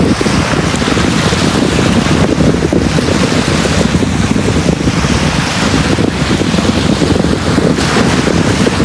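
Sea waves breaking and washing on a beach, the hiss of each wash swelling and fading every couple of seconds, over a steady low rumble of wind on the microphone.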